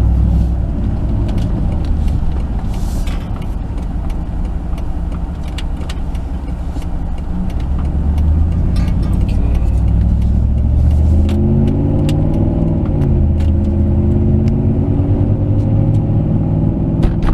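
2008 Jeep Commander's 5.7 Hemi V8 and road noise heard inside the cabin while driving, a steady low rumble. About twelve seconds in, the engine note rises and then drops as the 545RFE automatic changes gear.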